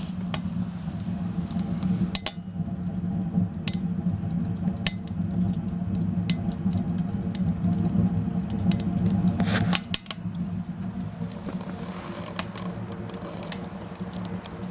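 Small homemade wood-burning stove drawing well: a steady low hum of the draft through the firebox and flue, with scattered sharp crackles and pops from the burning kindling and wood, including a cluster about nine and a half seconds in.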